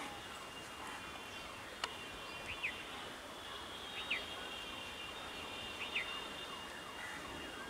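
A bird calling three times, a short sharp falling note every second and a half or so, over steady outdoor noise with a faint high whine. A single sharp click comes a little under two seconds in.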